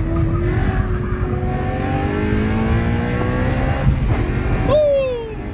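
Car engine under hard acceleration, heard from inside the cabin, its pitch rising steadily for about four seconds; near the end a short, sharp squeal slides down in pitch as the car slows.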